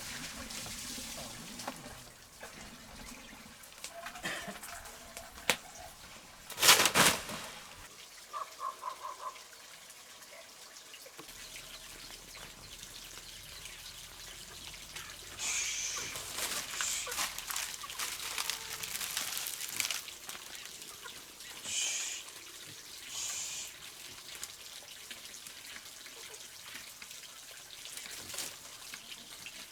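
Water pouring and trickling in short, uneven spells, with one loud sudden noise about seven seconds in.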